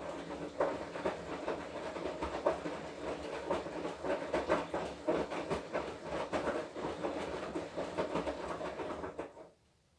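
Washing machine drum turning during the wash cycle: a steady motor hum under a rapid, irregular clatter of tumbling laundry, building up just before and cutting off suddenly near the end as the drum stops.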